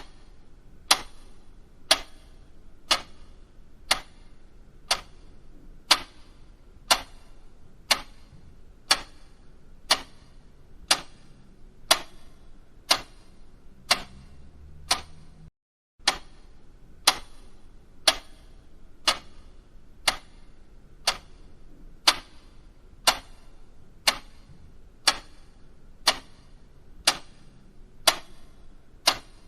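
Clock ticking, one tick a second, with a brief silent break a little past halfway.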